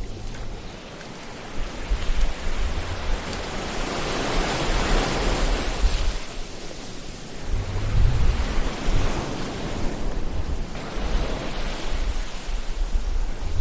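Ocean surf: waves swell and wash in, twice, over a low rumble.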